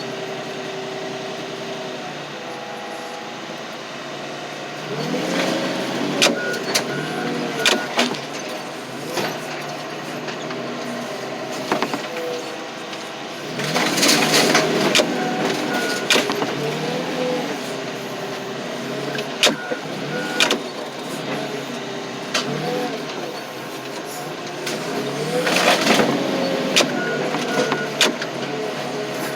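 Crushing machine's engine working under load, its pitch rising and falling, while the body of a Chevy pickup is crushed with repeated sharp cracks and bangs; the loudest crunching comes about halfway through and again near the end.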